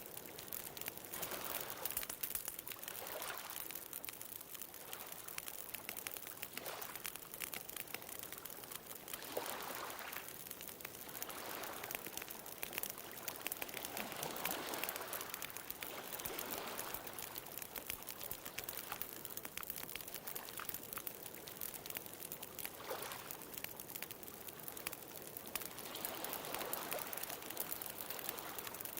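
Wood fire crackling with many small pops, over gentle ocean waves washing in and drawing back every few seconds.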